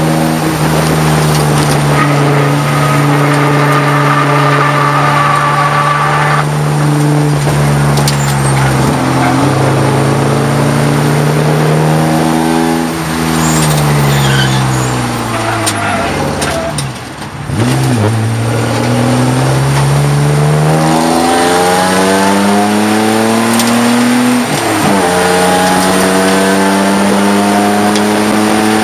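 Race car engine heard from inside the cabin, running hard at high revs, then dropping in pitch as the car slows for a corner, and revving back up with a gear change about two-thirds of the way through and another near the end. A thin high whine rides over the engine for a few seconds near the start.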